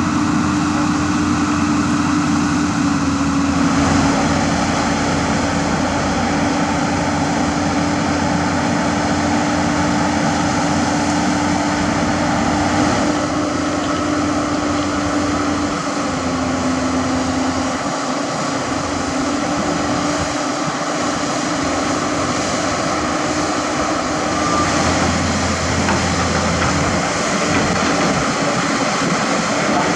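Heavy diesel engine running steadily at a constant speed, its pitch dipping briefly about halfway through.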